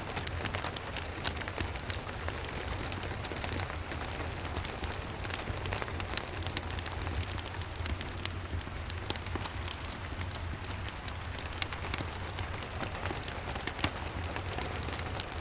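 Steady rain with a fireplace crackling: scattered sharp snaps over an even hiss, and a low steady rumble underneath.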